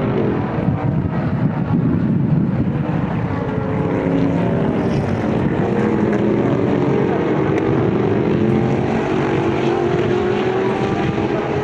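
Several racing car engines running at race speed at once, their exhaust notes overlapping and their pitch shifting up and down as the cars pass.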